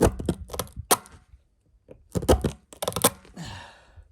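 Sharp knocks and clicks from handling tire-plug repair tools against the tire: a quick run of about four in the first second, then another cluster about two seconds in, followed by a brief scrape.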